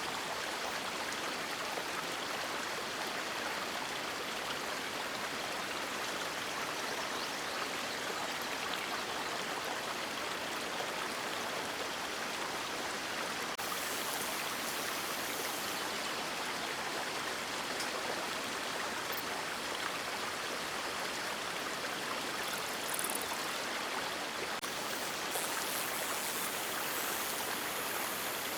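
River water flowing: a steady, even rush with brief brighter splashes about halfway through, again after about 23 seconds, and near the end.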